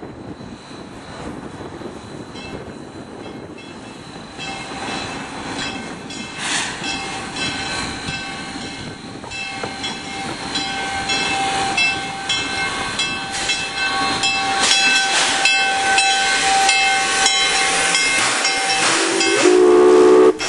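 Steam locomotive of the Lahaina sugar cane train drawing near, its chuffing and steam hiss growing steadily louder, with a long steam-whistle tone held through much of the second half.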